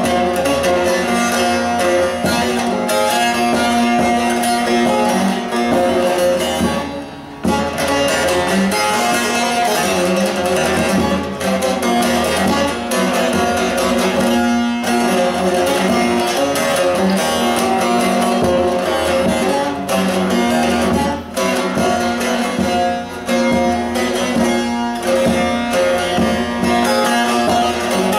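Bağlama (saz) with a carved mulberry bowl played solo: a quick plucked melody over ringing drone strings, with a brief break about seven seconds in.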